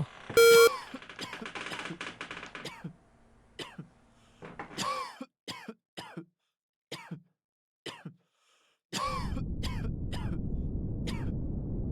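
A short electronic beep marks the start of preparation time, followed by a patter of clicks. Then come a series of short coughs and throat-clearing sounds, as in a test room. About nine seconds in, a steady low background hum of room noise sets in.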